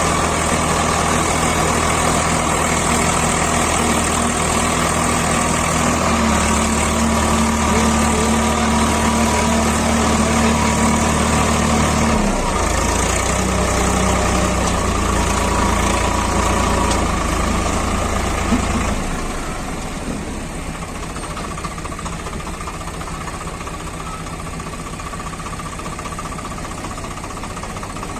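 Swaraj 744 FE tractor's three-cylinder diesel engine running under a full load in soil. Its pitch steps up about six seconds in, drops suddenly about twelve seconds in, and the sound gets quieter about nineteen seconds in.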